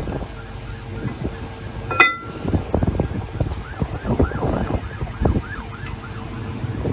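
Heavy machinery running with a low rumble, a single ringing metal clang about two seconds in, then a run of short squeals that rise and fall in pitch.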